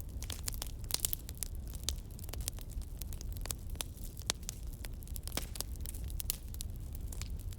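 Campfire crackling, with frequent irregular sharp pops and snaps of burning wood over a steady low rumble.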